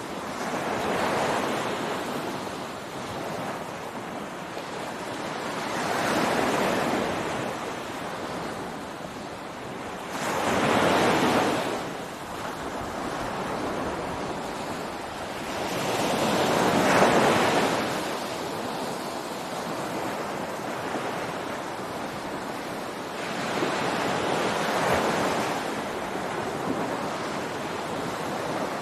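Ocean surf breaking on a beach: a continuous rushing hiss with a wave swelling and washing in about every five to seven seconds, five times, the middle two the loudest.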